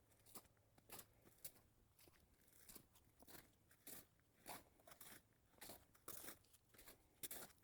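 Footsteps crunching through snow at a walking pace, about two steps a second, faint and steady.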